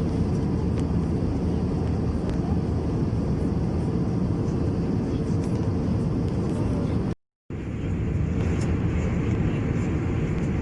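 Steady airliner cabin noise of an Airbus A321-200, a dense, even drone of engines and airflow heard from inside the cabin, with a faint steady hum running through it. The sound drops out completely for a moment about seven seconds in and resumes slightly brighter.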